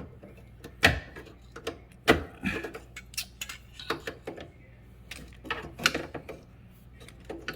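Irregular knocks and clicks of a jammed built-in dishwasher being worked and adjusted to free it from under the counter, with several sharp knocks, the strongest about one and two seconds in.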